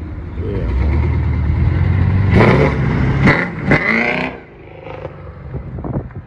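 Car engine revving, its note climbing over the first couple of seconds, then a loud, high-pitched stretch of about two seconds as the car drives past, before the sound falls away.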